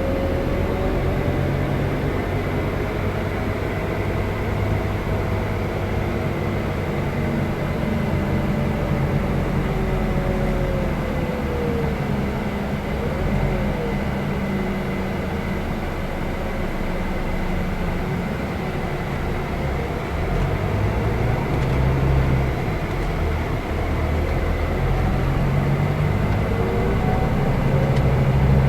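Scania K320 IB coach running under way: a steady low engine drone with a fainter whine that slowly rises and falls in pitch.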